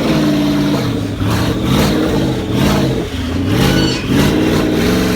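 Twin-turbocharged 2013 Ford Mustang GT 5.0 V8 being revved, its note rising and falling several times.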